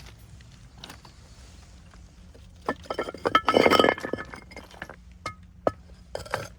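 Hard objects clinking together with short ringing tones: a quick flurry of clinks about three seconds in, then a few single clinks near the end.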